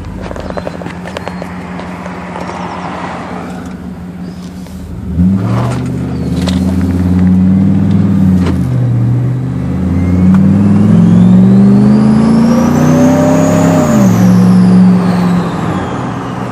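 Turbocharged 2009 Jeep Grand Cherokee SRT8's 6.1-litre Hemi V8 accelerating hard from about five seconds in, rising in pitch, dipping at a gear change and rising again. The Garrett GTXR42 turbo's whine climbs to a high pitch, then falls as the throttle is lifted near the end.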